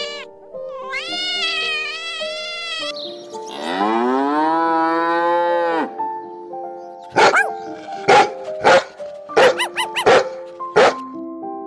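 A cat meows once. Then a cow gives one long moo that rises in pitch and levels off. Then a dog barks about seven times, all over background music with held notes.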